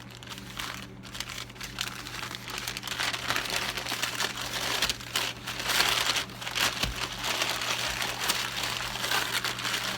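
Packaging being unwrapped and crumpled by hand, a dense run of crinkling and rustling, busiest in the middle, over a steady low hum.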